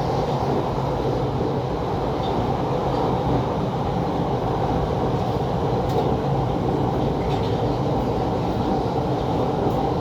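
London Underground 1973 Stock Piccadilly line train running along the track, a steady running noise with a few faint clicks.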